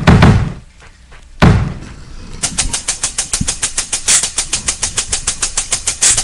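Heavy thumps, then a fast, even clicking of about eight ticks a second.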